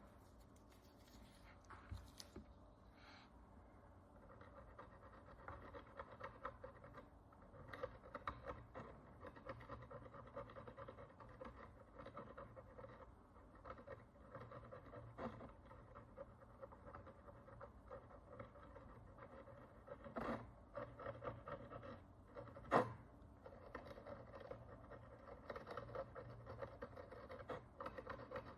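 Faint, fine scratching and scraping as a hand tool works the crust of dirt and oxidation off an ancient Roman bronze coin. A few sharp clicks are heard, the loudest about two-thirds of the way through.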